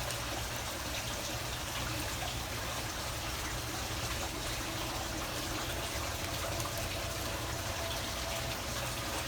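Water running and trickling steadily, without a break.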